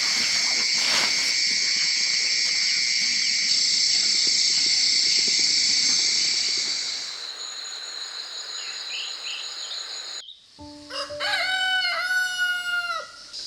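A loud, steady, high-pitched insect drone for about seven seconds, dropping away after. Then, after a sudden cut, a rooster crows once, one drawn-out crow of about two seconds.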